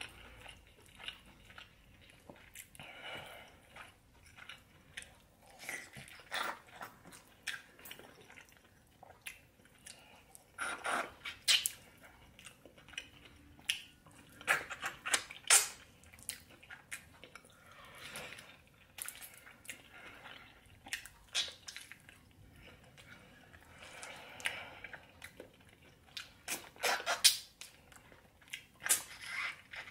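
A person eating oxtail stew close to the microphone: chewing and lip-smacking, heard as irregular short clicks and smacks that come in clusters, with quieter stretches between.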